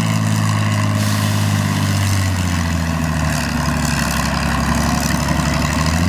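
Naturally aspirated pulling tractor's engine running hard and loud, its pitch sagging slowly as it works.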